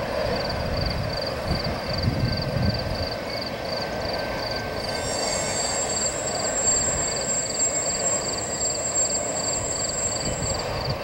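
Loaded intermodal freight cars rolling past, wheels rumbling steadily on the rail, while a railroad crossing bell rings about three strokes a second. From about halfway through, a high steady wheel squeal joins in and stops shortly before the end.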